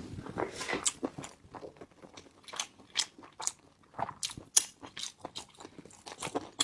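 Close-miked chewing and biting of crunchy food: a string of irregular crisp crunches.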